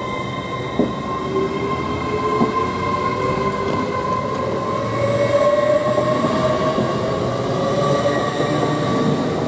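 Hull Trains Class 802 multiple unit pulling away from the platform, with a steady tone and a slowly rising whine as it picks up speed.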